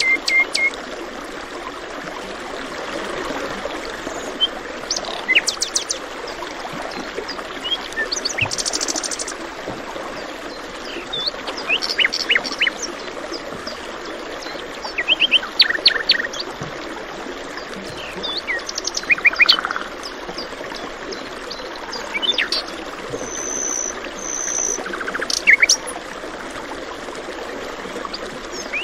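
Several birds chirping and trilling in short phrases scattered throughout, over the steady rush of flowing water.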